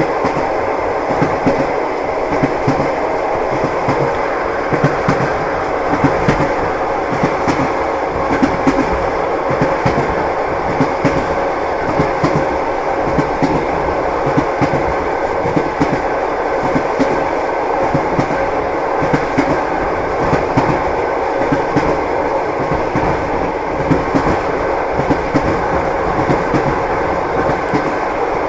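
Train wheels clacking over the rail joints with a steady rolling rumble, heard from inside a passenger compartment.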